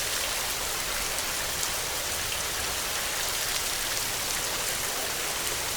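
Heavy rain falling steadily: an even hiss of rain on surfaces with fine drop patter, no thunder.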